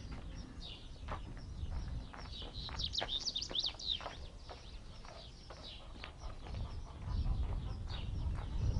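Small birds chirping, many short high chirps coming thick and fast a few seconds in. A low rumble grows stronger near the end.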